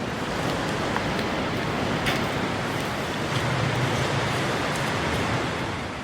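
Sea water surging and lapping inside the Beihai Tunnel, a rock-cut sea tunnel on Beigan, a steady wash of water noise echoing off the rock walls.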